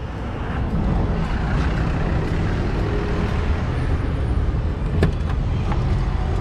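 Steady rumble of vehicle engines and road traffic, with a single sharp knock about five seconds in.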